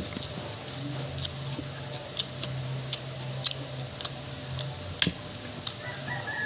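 Close-miked eating sounds: irregular sharp clicks of chewing and lip smacking, about two a second, over a steady low hum.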